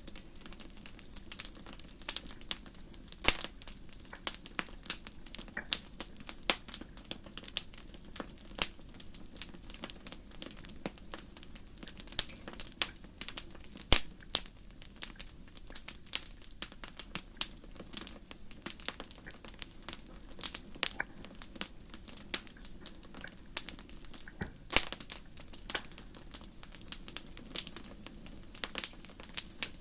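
A fire crackling: irregular sharp pops and snaps, several a second, some louder than others, over a low steady rush.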